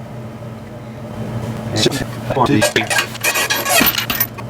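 Metal clanking and rattling in quick irregular knocks, starting about two seconds in, as the engine is worked loose where its oil pan is caught.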